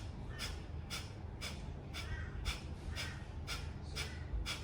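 Kapalbhati breathing: short, sharp exhalations forced out through the nostrils by the belly snapping in, repeated in an even rhythm of about two a second, nine in all.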